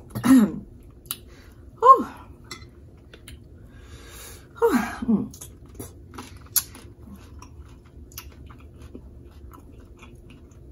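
Close-up chewing and wet mouth clicks from eating seafood boil, with three short falling voice sounds, near the start, about two seconds in and about five seconds in.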